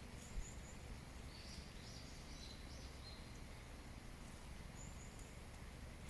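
Small birds chirping faintly, short high notes in a few brief clusters, over a steady low background rumble.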